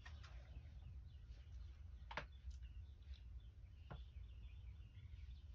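Near silence: a low background rumble with faint high chirps, likely birds, and two small clicks about two and four seconds in.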